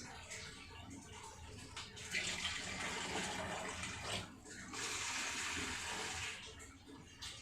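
Water running in two spells of about two seconds each, with a short break between.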